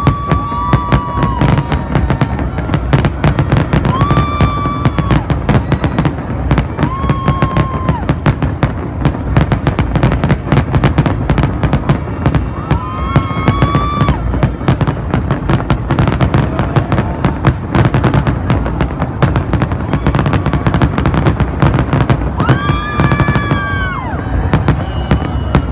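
Fireworks going off in a dense, continuous run of bangs and crackles. A short pitched tone sounds over them every few seconds.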